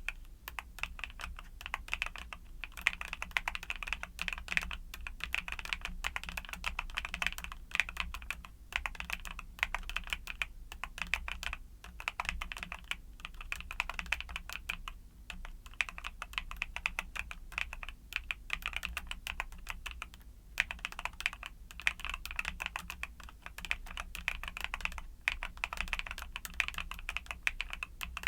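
Fast, continuous typing on a mechanical keyboard with YUNZII Cocoa Cream switches: a dense stream of key clicks, broken by short pauses every few seconds.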